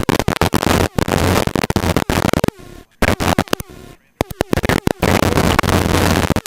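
Harsh static-like noise on the helicopter's cockpit intercom audio, cutting in and out abruptly in choppy blocks, with a low hum under the louder stretches.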